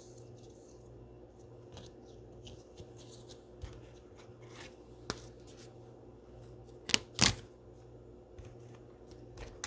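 Trading cards being handled and sorted on a table: soft sliding and small ticks, with a sharp click about five seconds in and a louder pair of clicks about seven seconds in.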